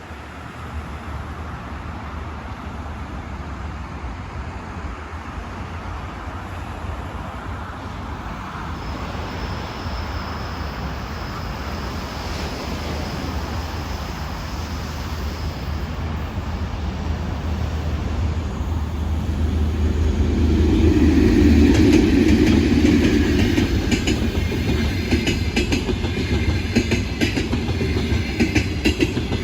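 Passenger train approaching and passing, its rumble building to loudest about three quarters of the way through, then the rhythmic clickety-clack of wheels crossing rail joints near the end.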